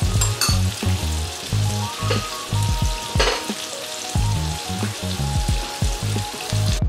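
Prawns and chopped red onion sizzling in hot oil in a frying pan, a steady crackling hiss, with background music underneath.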